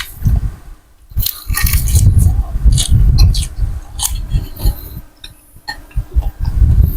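Close-miked eating of a bowl of Thai boat noodles: repeated chewing, with sharp clinks of a spoon and chopsticks against the bowl.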